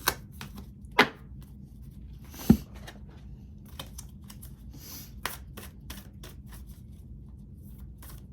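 Tarot cards being shuffled and handled: a run of irregular flicks and taps, the loudest about a second in and about two and a half seconds in, over a faint low hum.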